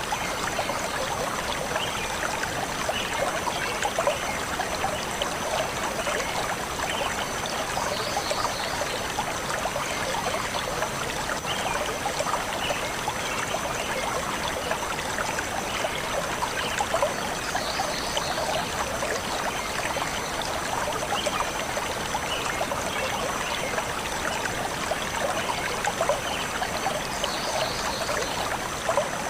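Forest stream flowing steadily, a splashing, trickling wash of water, with short high bird chirps coming back about every ten seconds.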